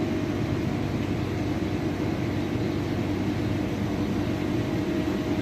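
Steady mechanical hum of a running machine, an even drone with a constant low tone that does not change.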